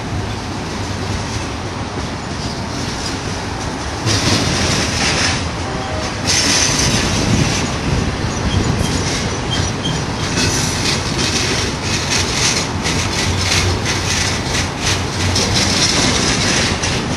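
Cars of a BNSF intermodal container train rolling past, the wheels clicking over the rails in quick irregular strokes. A loud high hiss of steel wheels on rail comes in about four seconds in and again from about six seconds.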